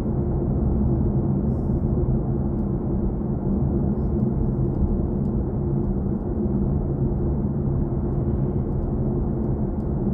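Steady road and tyre noise heard inside the cabin of a BMW i4 M50 electric car cruising at speed.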